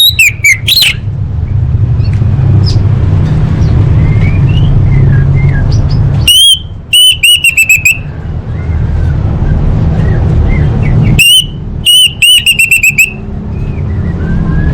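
Orange-headed thrush (anis merah) calling, given as a female's call: three bursts of quick repeated high whistled notes, one at the start, one about six seconds in and one about eleven seconds in, each lasting a second or two. A steady low rumble runs underneath.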